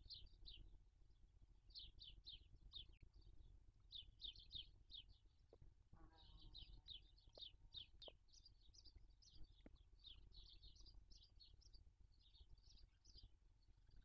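Faint, rapid bird chirping: short falling high notes in quick runs of two to four, repeated throughout. A brief lower squeak comes about six seconds in.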